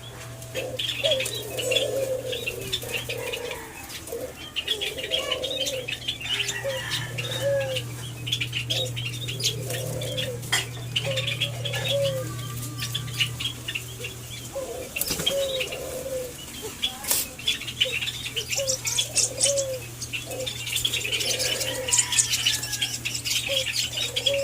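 White-eared brown doves cooing in short low notes, repeated every second or so, over a dense patter of quick high clicks and chirps and a steady low hum.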